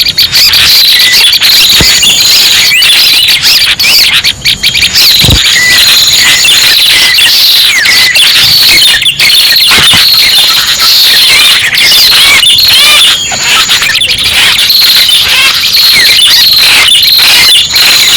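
Loud, dense, unbroken high chirping of many prenjak birds, short rapid call notes overlapping without pause. This is a bird-luring (pikat) call recording made to draw prenjak pala merah in for trapping.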